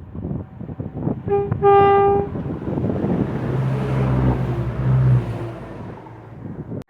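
A train sounds its horn: a brief toot, then a longer blast about a second in. It then passes with a rising rumble and a steady low engine drone that fades away. The sound cuts off suddenly near the end.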